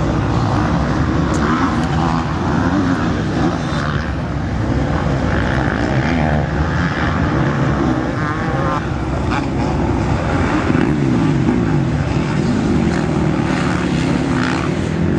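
Several motocross bikes racing around the track, their engines revving up and down as they accelerate and shift, the pitch rising and falling again and again.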